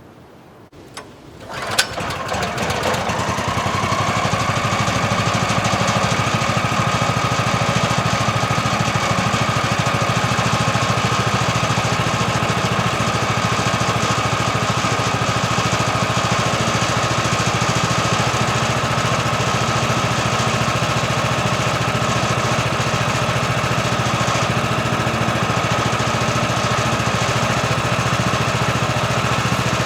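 HM-126 sawmill's small gasoline engine starting up about two seconds in, then running steadily with a constant whine.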